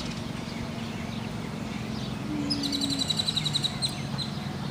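A bird's fast chattering trill of short high notes, about ten a second, lasting just over a second about halfway through, over a steady low hum.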